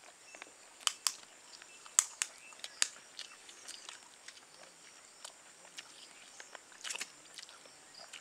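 Faint, scattered crunches of fried mutton kebab being chewed, with a few sharp clicks among them.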